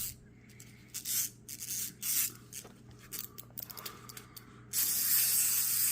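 Small hand-cranked plastic toy being turned, with irregular rubbing and clicking. Near the end a steady, louder hiss sets in.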